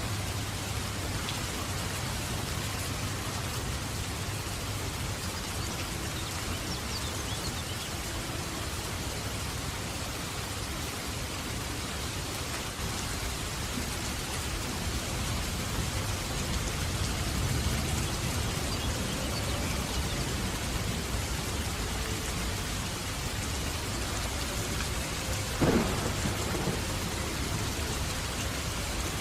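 Steady heavy rain with a continuous low rumble of thunder. A short, sharp crack stands out near the end.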